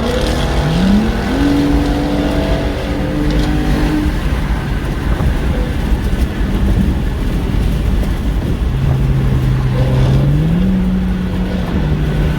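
Car engine accelerating under a heavy low rumble of wind and road noise from a moving car. The revs climb quickly about a second in and hold, then rise again later and drop back near the end, as with a gear change.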